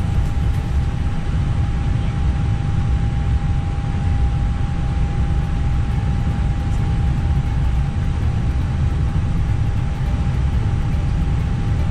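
Steady low rumble of an Airbus airliner's flight deck with the engines running at idle on the ground, with a constant mid-pitched whine over it.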